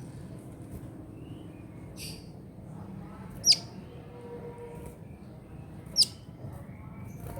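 A captive kolibri ninja sunbird gives two sharp, high call notes about two and a half seconds apart, each sweeping quickly down in pitch. A softer, hissy chirp comes before them, about two seconds in.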